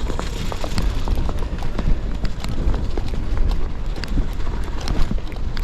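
Gravel bike tyres rolling over snowy, icy ground, with a dense run of small crunches and clicks over a steady low rumble.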